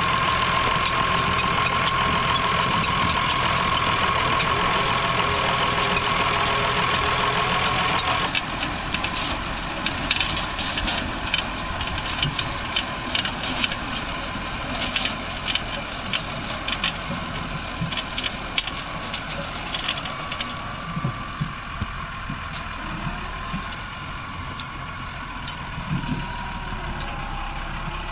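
Tractor engine running with a tractor-mounted potato harvester working. A loud, steady whine and din changes suddenly about eight seconds in to quieter running with many scattered sharp clicks and rattles.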